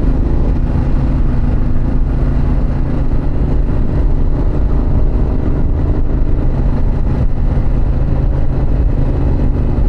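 Harley-Davidson Pan America's 1250 cc V-twin engine and exhaust running steadily while the motorcycle cruises, with wind and road noise.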